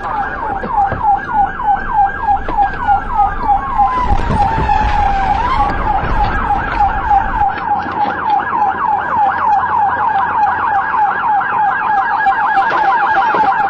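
Police car siren in fast yelp mode, rising and falling about three times a second, with one slower wailing sweep crossing it in the first half, during a high-speed pursuit.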